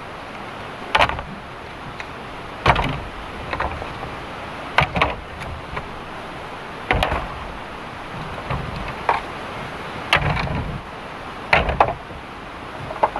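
Sharp wooden knocks at irregular intervals of one to three seconds, about seven in all, over a steady hiss of heavy rain.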